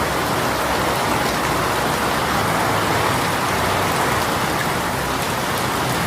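Steady heavy rain shower falling on surfaces, an even hiss with scattered drop ticks.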